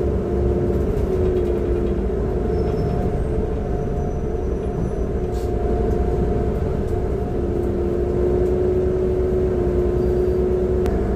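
Transperth bus TP1422 heard from on board: its engine and drivetrain run under a low rumble with a steady whine, which falls slightly in pitch at the start and dips briefly a little past halfway. The uploader takes this for a bad engine sound.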